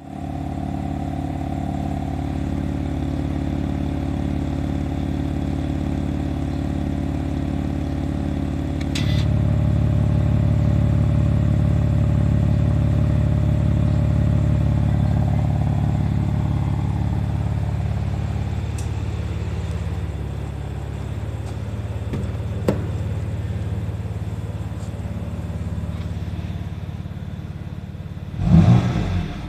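BMW M4's twin-turbo straight-six idling through its exhaust. About nine seconds in, a click and the idle steps up louder and fuller, as the exhaust valves are opened. A short rev near the end.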